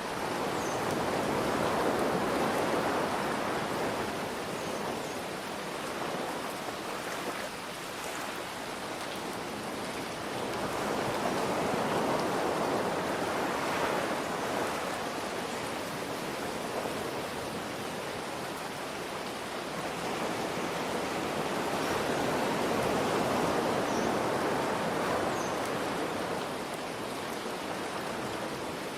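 Steady rain hiss with ocean waves washing in and out. The waves swell three times, about ten seconds apart.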